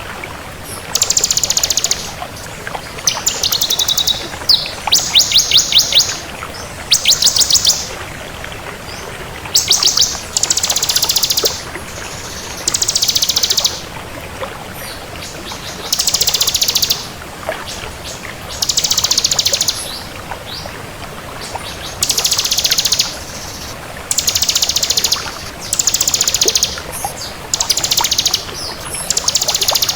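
Ciblek kristal (bar-winged prinia) singing: about a dozen short, high, fast-trilled song phrases of rapidly repeated notes, each about a second long, separated by pauses of one to two seconds.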